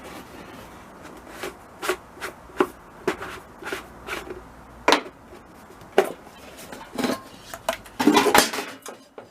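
Irregular metallic clicks and clinks as the motor assembly of a diesel air heater is worked loose and lifted out of its sheet-metal casing, with a louder clatter near the end.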